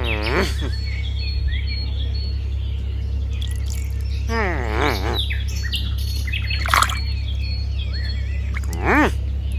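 Birds chirping, with several louder squawking calls that rise and fall in pitch, over a steady low hum.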